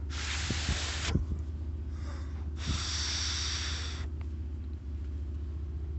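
A man breathing out heavily twice, close to the microphone: two long, hissy breaths about a second each, the second louder. A steady low hum runs underneath.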